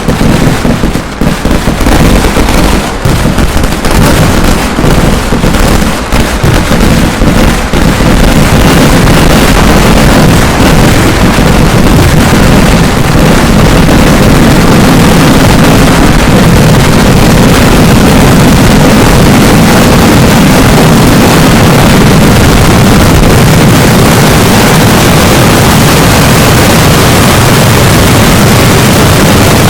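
Kerala temple-festival fireworks (vedikettu) going off very loudly. The firecracker blasts come in quick, separate bursts for the first several seconds, then merge into one continuous roar of explosions that runs without a break.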